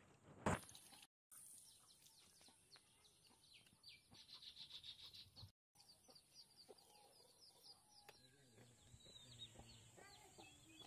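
Faint birds chirping, with a quick trill about four seconds in, and a single sharp knock about half a second in.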